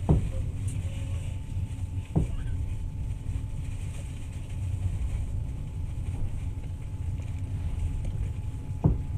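Moving passenger train: a steady low rolling rumble with a faint steady whine, broken by three sharp knocks, one at the start, one about two seconds in, and one near the end.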